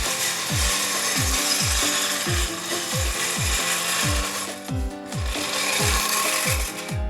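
Background music with a steady beat of low thumps, with a power tool running over it in two stretches and stopping briefly about four and a half seconds in.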